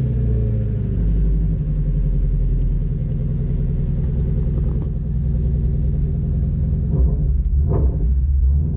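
Shelby GT350's 5.2-litre flat-plane-crank V8 idling, its revs settling back down just after the start from a throttle blip, then holding a steady idle. A short click sounds near the end.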